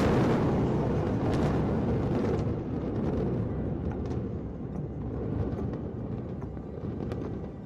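Deep, continuous rumble of high-rise towers collapsing in a controlled demolition. It starts with a sudden blast and slowly dies away.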